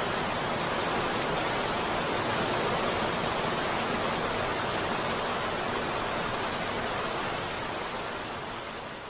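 Steady heavy rain, a dense, even hiss with no distinct drops or thunder, beginning to fade down near the end.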